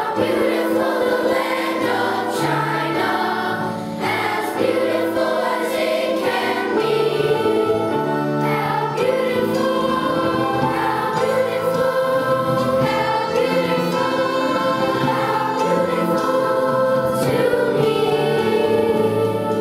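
A choir singing a slow melody in long held notes over a low moving accompaniment line.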